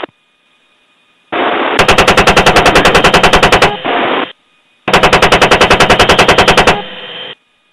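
Two bursts of rapid automatic gunfire, each about two seconds long at about ten rounds a second, separated by a brief pause. A radio-style hiss comes in just before each burst and lingers after it.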